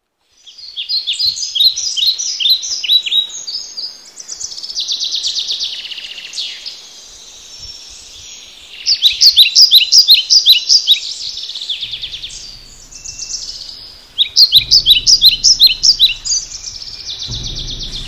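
Several birds singing, with quick repeated series of short high chirps and trills that come and go in phrases. A low steady rumble joins in during the second half and grows near the end.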